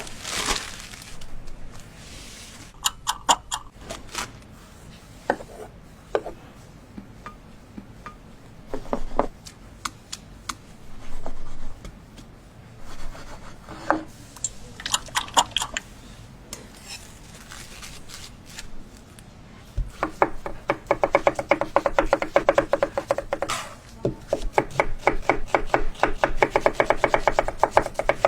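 Kitchen knife on a cutting board: scattered taps and knocks of food being handled, then, about two-thirds of the way in, rapid steady chopping, many strokes a second, with a short break before it resumes.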